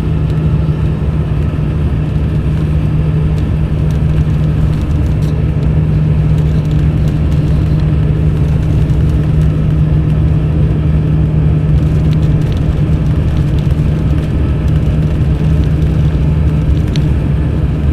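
Diesel engine of a Mercedes-Benz O500 RSD BlueTec5 coach running at a steady speed, heard from on board: a constant low drone that holds one pitch throughout.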